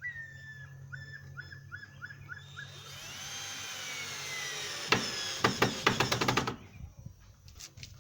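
Electric power drill spinning up with a rising whine and running steadily, then a rapid train of sharp clicks before it cuts off suddenly.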